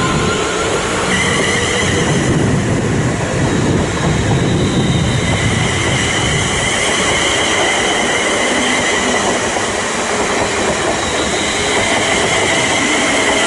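Electric train running at close range: a loud, steady rush of wheel and rail noise, with a high steady whine that comes in about a second in.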